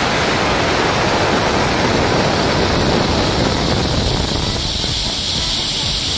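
Pazto 1/2 HP air compressor driven by a Pazto GX200 single-cylinder petrol engine, running: a loud, steady hiss of air over a low engine rumble. The hiss turns higher and thinner about four seconds in.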